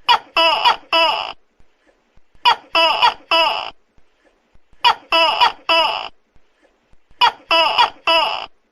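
Tokay gecko calling loudly: short calls in groups of three, the group repeating about every two and a half seconds.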